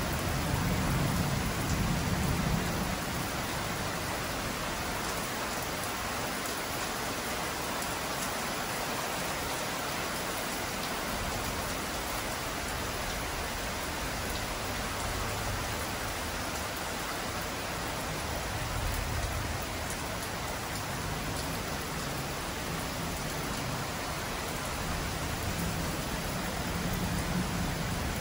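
Heavy rain falling steadily on the ground and patio tiles, an even hiss. A low rumble of thunder fades away over the first few seconds.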